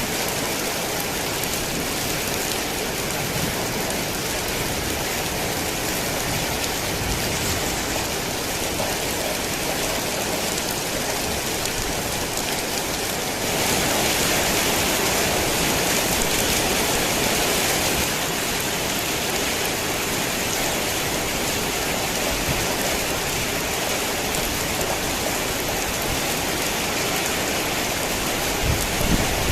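Heavy rain falling steadily, an even hiss of drops that swells louder for about four seconds midway. A low rumble sets in right at the end.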